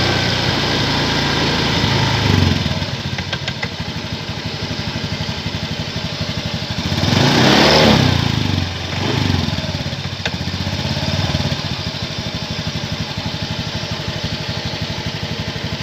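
A Honda Scoopy scooter's single-cylinder four-stroke engine idling, its throttle blipped briefly about two seconds in and revved higher and back down about halfway through. The engine is running on engine oil mixed with cooking oil, as a flush to clean the inside of the engine.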